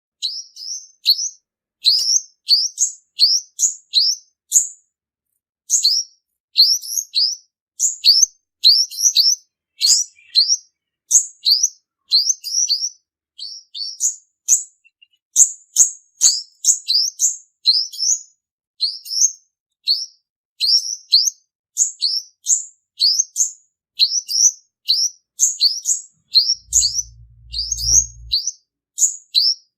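Male olive-backed sunbird (purple-throated sunbird) singing: a fast string of short, thin, high chirps that sweep downward, a few each second and nearly unbroken, used as a lure call for trapping. A brief low hum sounds near the end.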